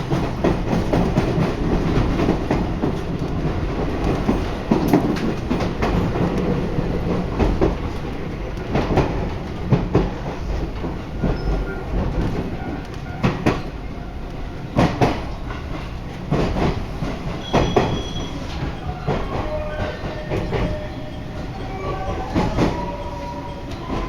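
Interior running sound of a JR 223-0 series electric train: steady rumble with repeated clacks of wheels over rail joints. In the second half, thin steady whining tones from its GTO-VVVF traction inverter and motors come in.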